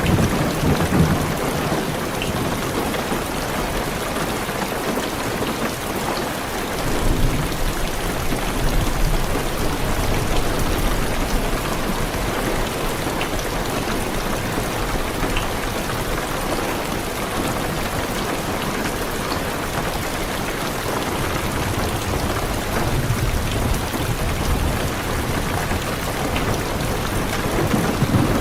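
Heavy, steady rain on a car's roof and windows, with low rolling thunder that swells and fades several times.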